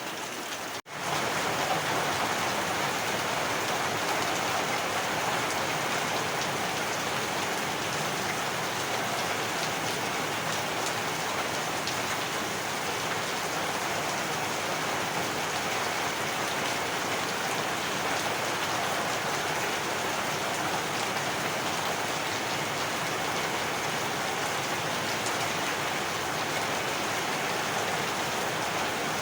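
Heavy rain falling steadily and evenly, with one brief break in the sound about a second in.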